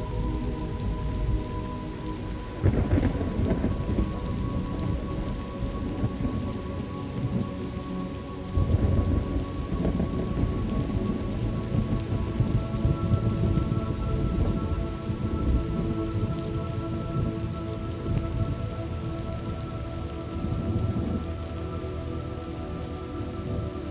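Thunderstorm ambience: steady rain with rolling thunder, the loudest rumbles swelling about three seconds in and again near nine seconds.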